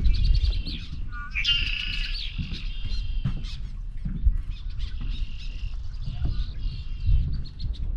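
Several marsh birds calling and singing in overlapping phrases, the loudest a rising, trilled phrase a second or so in, over a low rumble of wind on the microphone.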